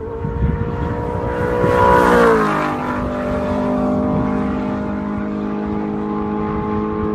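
A vehicle engine passing by: a steady pitched engine note gets loudest about two seconds in, then drops in pitch as it goes past and holds steady.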